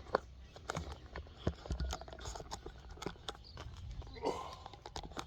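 Scattered light clicks, knocks and rustling of a person getting down on the ground and handling gear, with a brief grunt-like sound about four seconds in.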